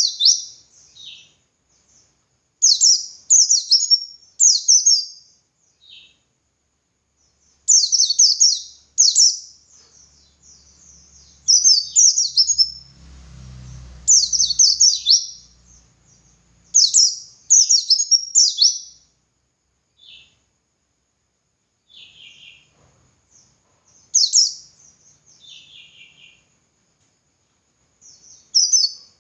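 A white-eye (pleci) singing in repeated short phrases of rapid, high chirps, with pauses between them. This is the full, wild-style 'ngalas' song used to train caged white-eyes. A faint low rumble sits under the song about midway.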